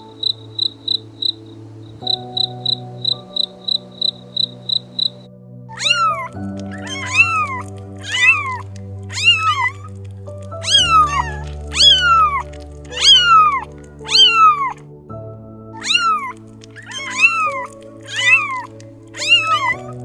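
A cricket chirping in quick, even pulses, about three a second, for the first five seconds. Then a cat gives high meows about once a second, each falling in pitch, over background music of held chords.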